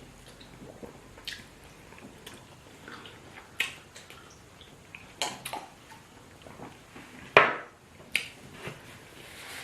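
Eating sounds: irregular wet smacks and squelches of fufu and spinach soup being eaten by hand, with the loudest one a little after seven seconds in.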